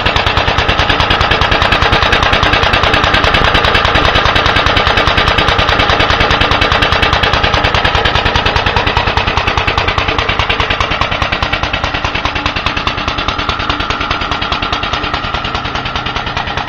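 Briggs & Stratton FI single-cylinder engine on a 1930 Locke reel mower, running steadily with a rapid, even train of firing pulses. It gets a little quieter in the second half.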